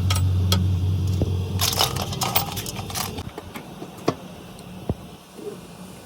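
Workshop clatter: a dense run of sharp knocks and clicks from tools and parts being handled, with a few single knocks after it, over a low hum that stops about a second and a half in.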